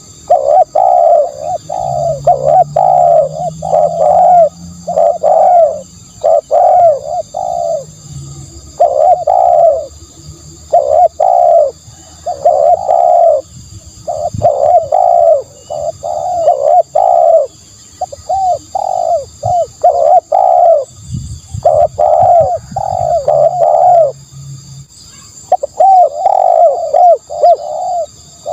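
Spotted dove cooing over and over: runs of three to five low coo notes with brief pauses between the phrases.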